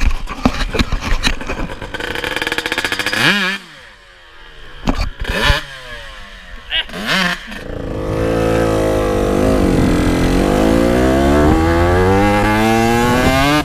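Two-stroke dirt bike engine revving hard. It revs up and falls off about three seconds in, then gives a few short throttle blips. From about eight seconds it holds a long loud pull, dipping in pitch and then climbing steadily toward the end.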